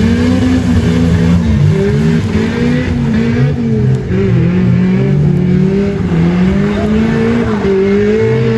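Engine revving hard, its pitch climbing and dropping again and again as the throttle is worked.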